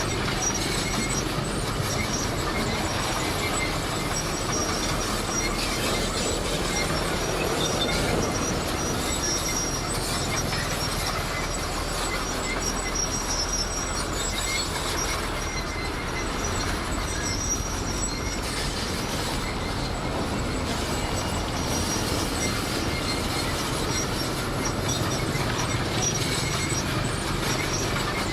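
Komatsu D58 crawler bulldozer working, its diesel engine running steadily under the clatter of its steel tracks, with thin high squeals from the track running gear coming and going.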